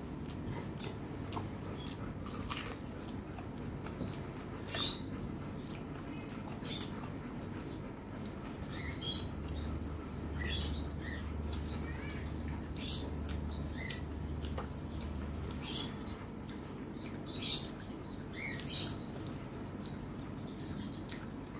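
Close-up chewing and wet mouth sounds of a person eating rice by hand: short sharp smacks and clicks, roughly one a second, over a steady low hum.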